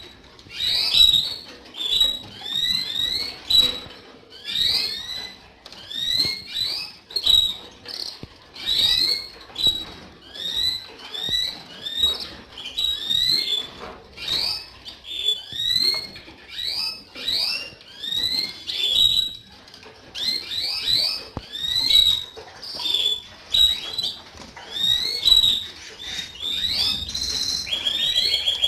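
Domestic canaries calling, with short upward-sweeping chirps in bursts about once a second. A fast trill starts near the end.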